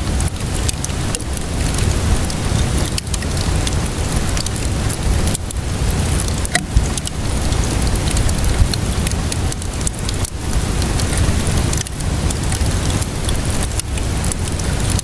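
Wood fire crackling over steady rainfall: a constant rain hiss and low rumble, sprinkled with frequent small crackles and a few louder pops, the sharpest about six and a half seconds in.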